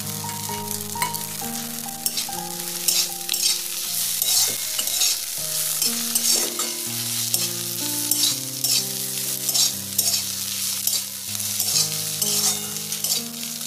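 Chickpea-leaf saag frying in a hot kadai, sizzling, while a plastic spatula stirs and scrapes it against the pan in repeated strokes. Soft background music with held notes plays underneath.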